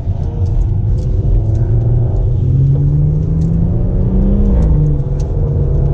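Car engine and road rumble from inside a moving car. The engine note climbs steadily for a couple of seconds, then drops sharply about four and a half seconds in, as at an upshift.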